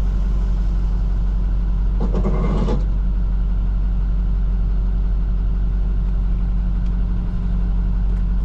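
Plow truck's engine running steadily, heard from inside the cab, with a brief pitched sound about two seconds in.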